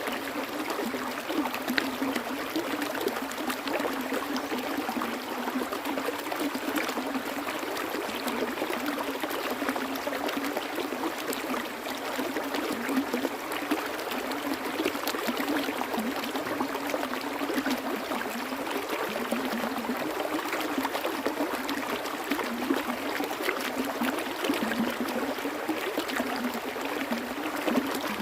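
Flowing water: a stream running steadily, with constant gurgling and many small splashes.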